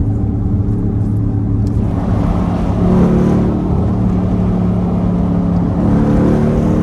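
Straight-piped Hemi V8 exhaust of a Dodge Durango SRT droning steadily while driving, swelling slightly about three seconds in.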